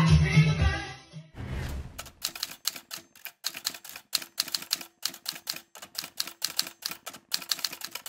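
Manual typewriter keystroke sound effect: a long run of sharp clacks, about four or five a second, starting about two seconds in. Before it, the end of party music with voices and a short whoosh.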